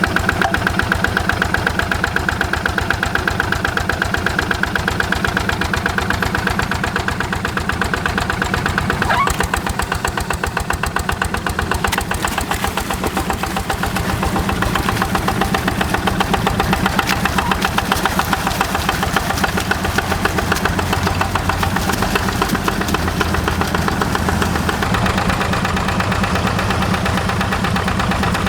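Yanmar single-cylinder diesel engine of a Quick G1000 hand tractor running steadily with a fast, even putter of firing pulses.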